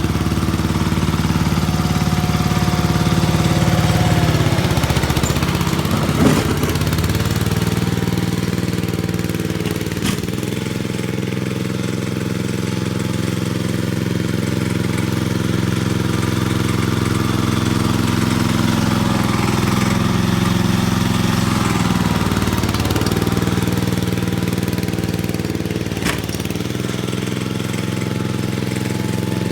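Gravely tractor engine running steadily. Its pitch sags and recovers twice, as if under load, with a few sharp knocks along the way.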